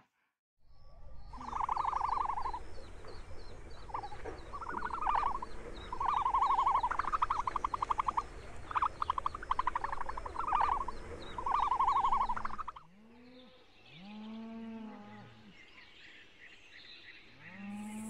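A bustard's harsh, rattling calls, repeated every second or two over a steady low wind rumble. The calls stop about 13 seconds in, and lower calls that rise and fall follow.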